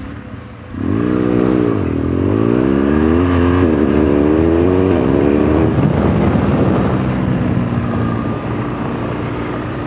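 Adventure motorcycle engine pulling away hard and accelerating through the gears: the note climbs, drops briefly at each upshift, climbs again several times, then settles to a steadier, lower pitch.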